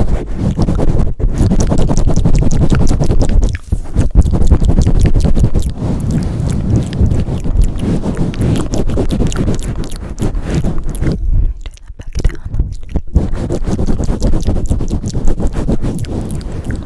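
Close-up microphone handling for ASMR: hands pumping and swirling over the mic, giving a loud, rumbling, crackly rubbing that briefly drops away about a third of the way in and again for a moment past the middle.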